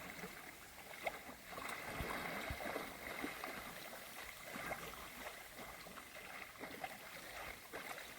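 Faint lapping and light splashing of water, with scattered small splashes, as a person wades into cold river water for a winter dip.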